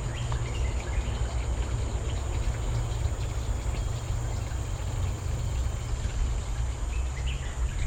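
Forest ambience: a steady high drone of insects with a few faint bird chirps, over a constant low rumble on the microphone.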